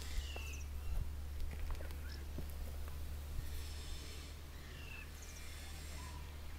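Quiet garden ambience: a steady low rumble with a few short, faint bird chirps, one about half a second in and another near five seconds.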